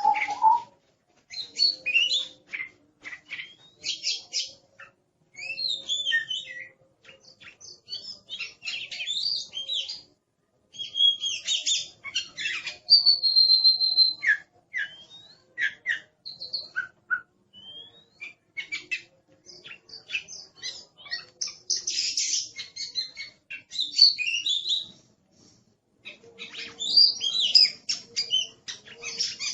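Oriental magpie-robin (kacer) singing an aggressive, busy song of rapid chirps, sweeping notes and whistles in bursts with short pauses, including one steady whistled note about halfway through.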